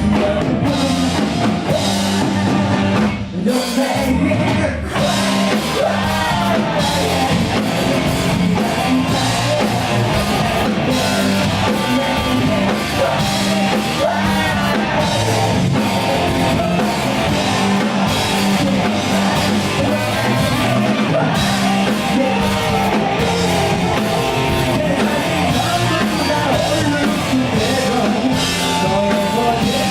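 Rock band playing live: a singer over drums and guitars.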